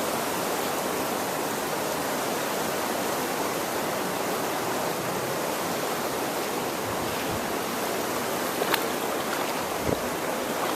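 Shallow river water rushing steadily, with two faint knocks near the end.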